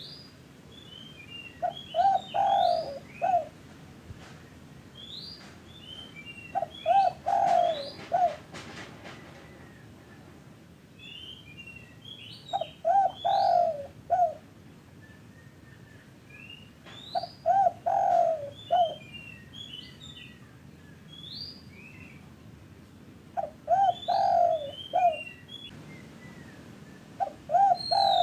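Spotted dove (tekukur) cooing a short phrase of several coos, repeated about every five seconds. It is a lure call for getting other doves to sing. Higher-pitched bird chirps come along with each phrase.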